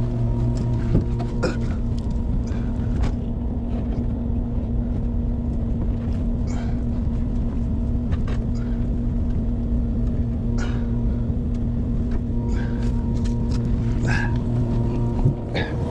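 A machine running with a steady low hum and a held tone, with scattered light clicks and knocks over it.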